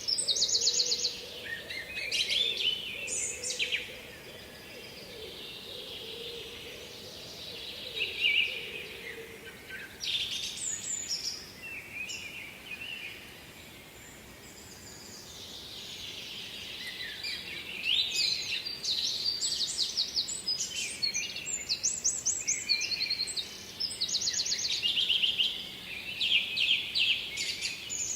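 Songbirds singing in repeated bright, trilled phrases over a steady background hiss. The song is busiest near the start and through the second half, with a quieter stretch in the middle.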